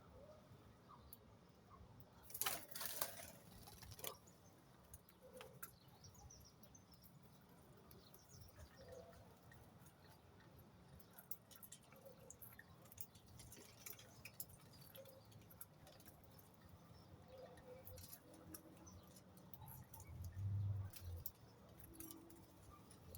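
Faint small-bird activity: scattered light ticks and taps, with a brief flutter about two and a half seconds in and a low thump near the end.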